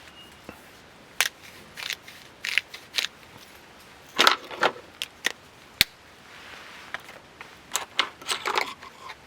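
Close-up handling noises: irregular crinkles, clicks and knocks, with one sharp knock near the middle.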